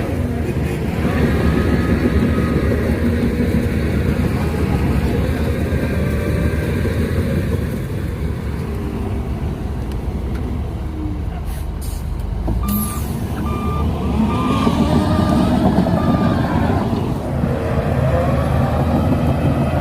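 Shantui DH17C2 bulldozer's diesel engine working steadily, with its reverse alarm beeping about twice a second for a few seconds just past the middle.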